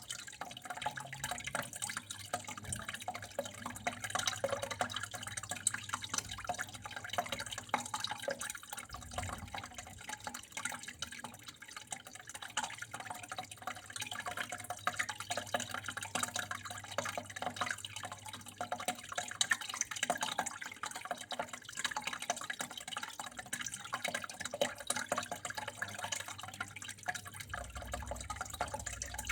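Water flowing and trickling steadily, with a constant patter of small drips and splashes, over a faint steady low hum.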